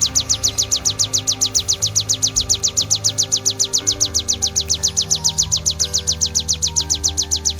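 Ciblek sawah (plain prinia) singing its 'kristal' song, a fast, unbroken run of identical high chirps at about eight a second, over a soft music bed of low sustained notes.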